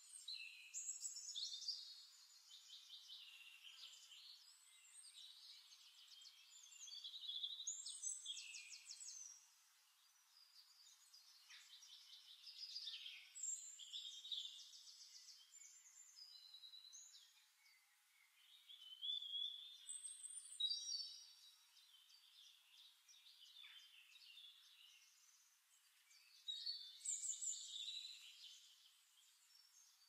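Faint birdsong: bursts of chirps and quick trills every several seconds, with quieter calls between them.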